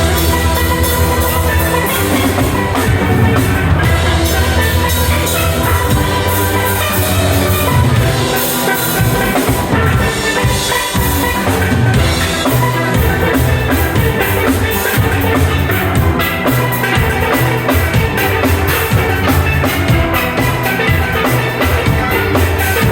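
Steel band playing: steelpans carrying a lively melody over a bass line and a drum kit keeping a steady beat.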